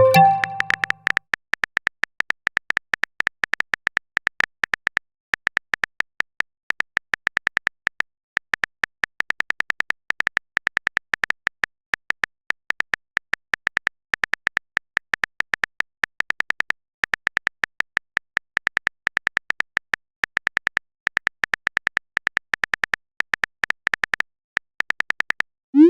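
Phone keyboard typing sound effect: a fast, uneven run of light clicks, several a second, with short pauses now and then. It opens with a short message notification chime.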